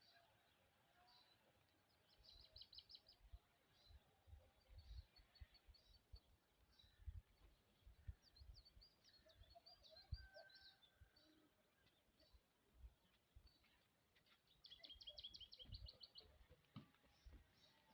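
Faint small birds chirping outdoors, with a rapid trill about two seconds in and a longer one near the end. Occasional short low thumps run underneath.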